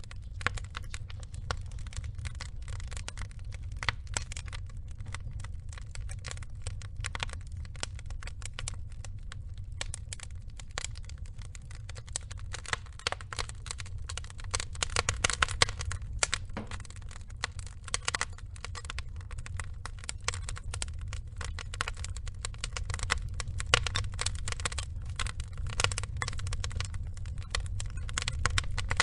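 Burning wood logs crackling and popping in rapid, irregular clicks over a low, steady rumble of the fire, with a busier run of louder pops about halfway through.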